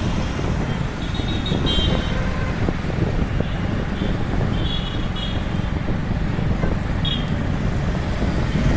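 Street traffic heard from a moving motorbike: a steady rumble of road and wind noise, with short high vehicle-horn toots about two seconds in, a pair around five seconds, and one more near seven seconds.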